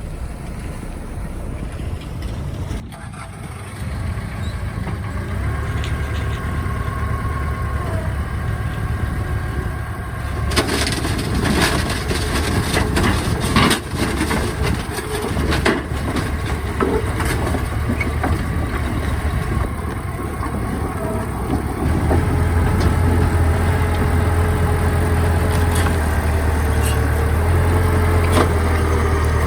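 Heavy earthmoving machinery with a steady diesel engine drone. From about ten to sixteen seconds in there is a noisy stretch of clattering and rumbling, and the engine grows louder and steadier over the last several seconds.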